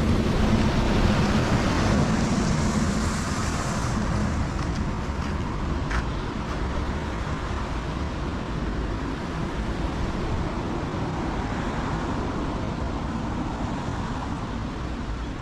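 Heavy rain with the hiss of a car passing on the wet road. The hiss is loudest in the first few seconds, then slowly fades away.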